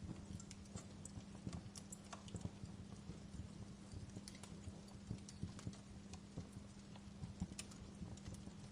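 Wood fire burning in a fireplace, crackling with irregular pops and snaps over a soft hiss, with a low steady hum underneath.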